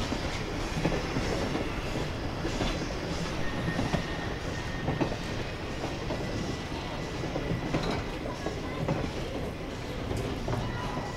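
J. Neils Lumber Co. #5, a geared Shay steam locomotive, running on the track with its train: a steady rumble of wheels on rail with scattered clicks and clanks.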